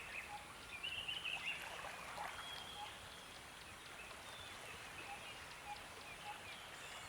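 Faint nature-sounds backing track: a steady rush of flowing water with birds chirping now and then, most of the chirps in the first couple of seconds.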